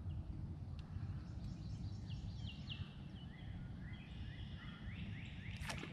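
A small bird singing a rapid series of short, high, whistled notes, about four a second, that drop to a lower pitch partway through. Under it is a steady low background noise, and a brief sharp click comes near the end.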